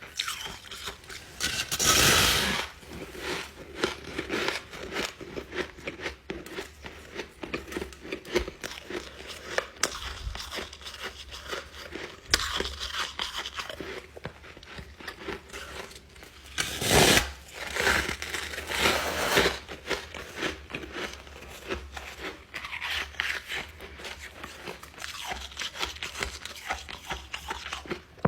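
Ice being bitten and chewed close to the microphone: continuous crisp crunching and crackling, with big loud bites about two seconds in and again around seventeen to nineteen seconds in.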